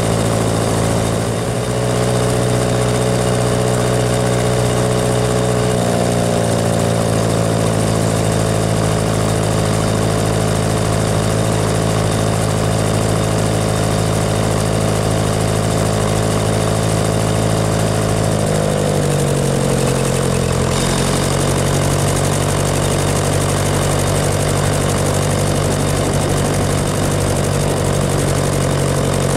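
Tractor engine running steadily on the road, its note dropping a little about six seconds in and again about nineteen seconds in.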